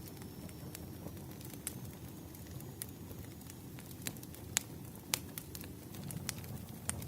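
Wood fire burning: a steady low rumble with irregular sharp crackles and pops, the loudest two a little past the middle.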